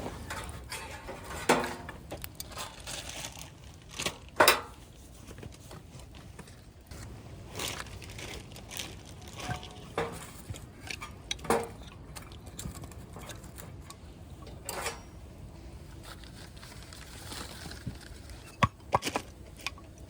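Camp cookware and utensils clinking and knocking as they are handled, in scattered sharp strokes a few seconds apart, with a quick cluster of clinks near the end.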